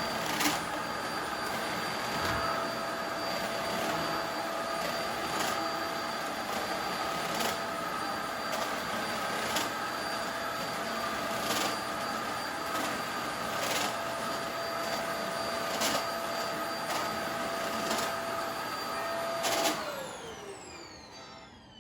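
Corded cyclone vacuum cleaner running steadily, a whine over the rush of air, with a click about every two seconds. It is switched off about 20 seconds in, with a click, and the whine falls in pitch as the motor winds down. The owner says this cyclone machine was making a strange noise.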